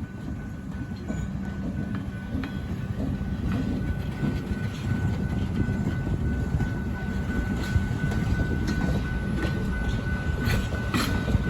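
A train rolling past at a crossing: a steady low rumble of wheels on the rails, with clicks from the rail joints that grow sharper near the end, and a thin steady high tone running through it.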